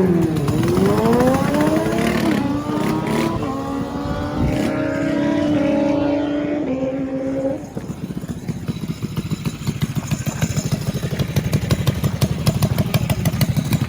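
Screamin' Eagle DB30 mini drag bike engine revving hard, its pitch climbing, dipping and climbing again. About seven and a half seconds in the throttle closes and the engine drops to a rough, lumpy low running note.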